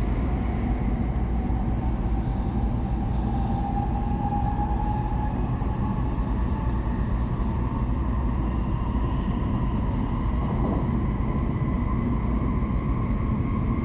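Shinkansen train running at speed, heard from inside the passenger cabin: a steady rumble with a faint whine that rises slightly a few seconds in.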